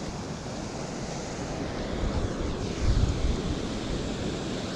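Wind buffeting the microphone outdoors, a steady rushing noise with a stronger low rumble of a gust about three seconds in.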